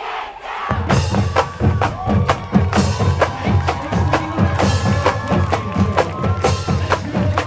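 Marching band kicking in about a second in, after a brief shout: a drumline beating a steady rhythm of sharp strokes and bass drums under held brass notes.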